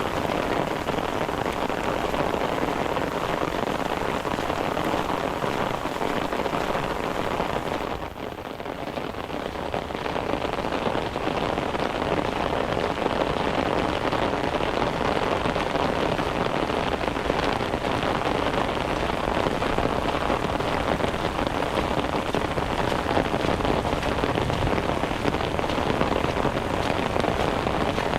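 Steady rain falling and pattering on the surfaces around, a dense hiss that dips briefly about a third of the way through before coming back to full strength.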